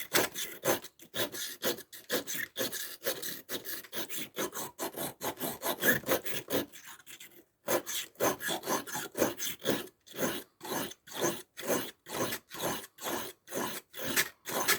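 Victorinox Swiss Army knife blade rubbed back and forth on a coarse sharpening stone, about three scraping strokes a second, with a brief pause about halfway through. The blade is being ground down (reprofiled) rather than finely honed.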